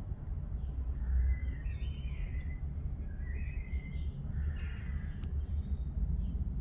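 Small garden birds singing in several short, chirpy phrases, over a steady low rumble.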